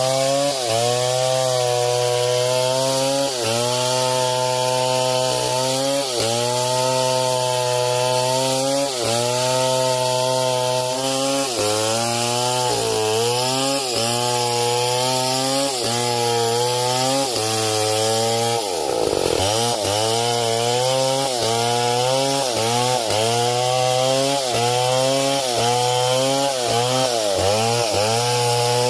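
Two-stroke chainsaw cutting through wood at high revs. Its pitch sags and recovers every second or two as the chain is pressed into the cut, and about two-thirds of the way through the engine is dragged down sharply almost to a bog before revving back up.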